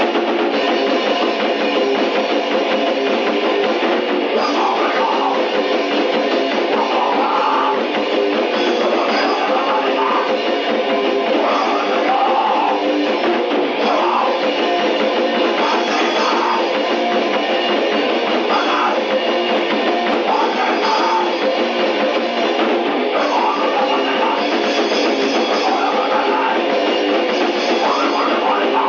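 D-beat raw punk demo recording: distorted electric guitar and fast drums, thin with almost no bass, with shouted vocals coming in about four seconds in.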